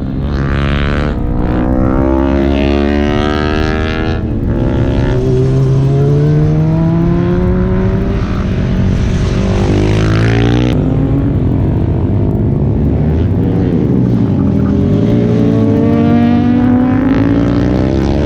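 Several sport motorcycles running at high revs on a race track, their engine notes overlapping and repeatedly climbing and falling in pitch as bikes pass.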